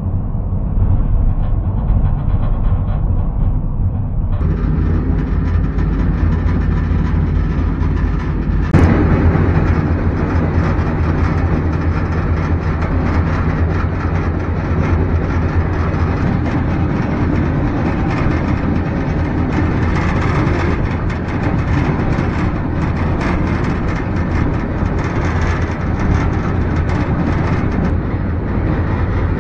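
Freight train rolling along the track, heard from aboard: a steady heavy low rumble of wheels on rail that grows louder about four seconds in. A single sharp clank comes near nine seconds.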